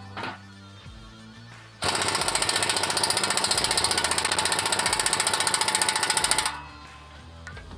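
Pneumatic impact wrench hammering at exhaust bolts to break them loose. It gives a brief blip near the start, then one long rapid-fire rattling burst from about two seconds in until shortly before the end.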